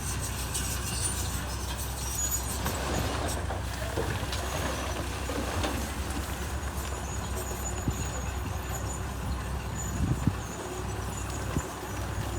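Bulldozer's diesel engine running steadily at work, with scattered knocks and clanks over it.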